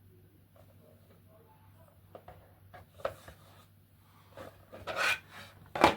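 3D-printed plastic parts being handled and fitted together: scattered light taps and clicks, a short scraping rub about five seconds in, and a sharp plastic click near the end as a piece snaps into place.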